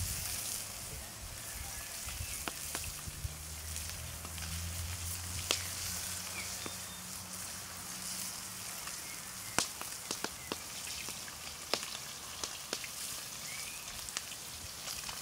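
Roach sizzling as they fry over a wood campfire, with a steady hiss and the fire crackling and popping at irregular moments.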